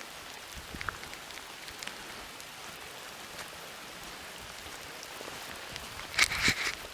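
Steady rain falling through a forest: an even hiss with scattered single drops landing close by. Near the end a few louder scuffing noises break in.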